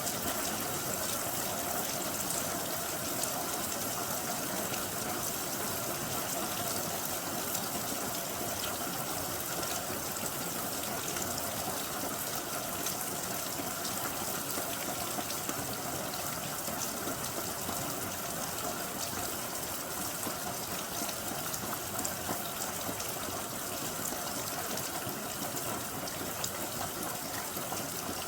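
Rain falling steadily: an even, unbroken hiss of water with many fine drop ticks.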